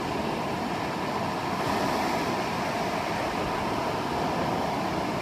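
Steady wash of ocean surf and wind, an even rushing noise with no distinct breaks or impacts.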